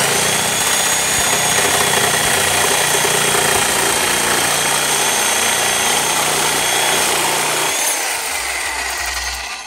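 A 12-amp DeWalt corded reciprocating saw running at full trigger, its fine-toothed metal-cutting blade sawing through a small metal pipe, with a steady high whine over the rasp of the blade. About eight seconds in, the sound drops away as the cut finishes.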